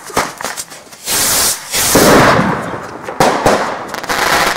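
Fireworks going off close by: scattered crackling pops, then a loud hiss about a second in that swells into a louder, fuller rush around two seconds, followed by sharp cracks.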